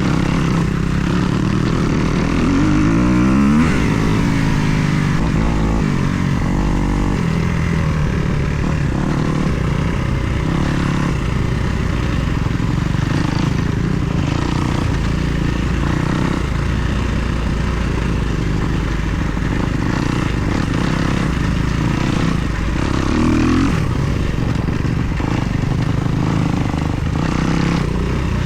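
Kawasaki KX250 motocross bike's single-cylinder four-stroke engine running under way, with the revs rising sharply about three seconds in and again near the end.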